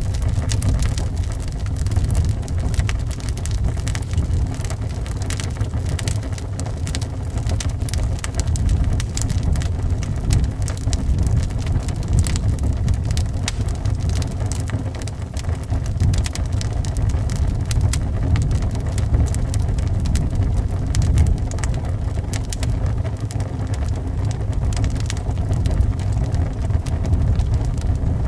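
Wood fire crackling, with many small irregular pops, over a steady low rumble of wind.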